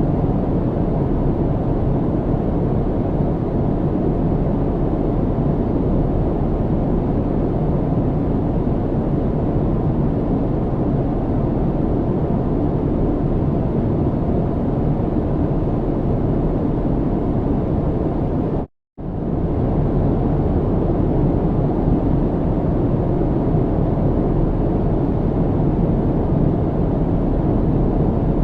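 Steady airliner cabin noise in flight: an even, low rumbling hiss from the engines and airflow around the fuselage. It drops out to silence for a split second about two-thirds of the way through, then resumes unchanged.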